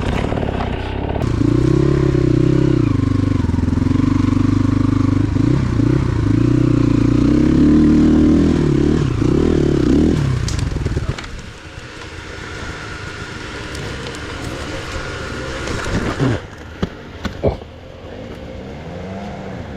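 Motorcycle engine revving up and down for about ten seconds, then dropping away to a quieter, steadier running sound, with a few sharp knocks near the end.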